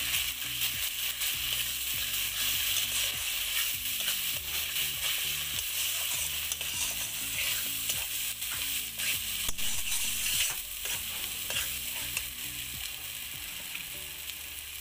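Spice masala of freshly added turmeric, cumin and chilli powders sizzling in hot oil in a metal kadai, stirred with a flat metal spatula that scrapes and clicks against the pan many times. The sizzle eases a little near the end.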